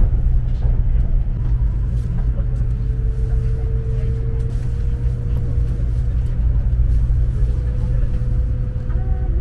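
Cabin noise of a Sakura Shinkansen bullet train running: a steady low rumble, with a faint steady whine that steps up slightly in pitch about halfway through.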